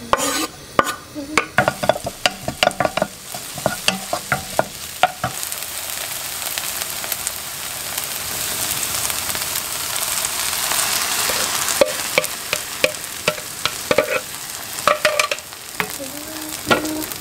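Chopped green onions sizzling in oil in a nonstick wok, stirred with a wooden spatula that clicks and scrapes against the pan. The sizzle swells to a louder steady hiss around the middle, then the spatula clicks pick up again as egg and rice are stir-fried.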